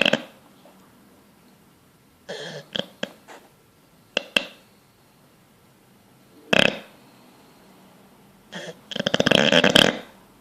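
Sleeping bulldog snoring and snorting: short throaty bursts every second or two, then a longer, fluttering snore near the end.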